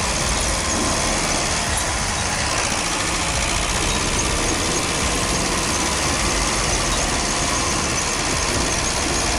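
Truck engine running steadily, with a constant heavy rumble and noise.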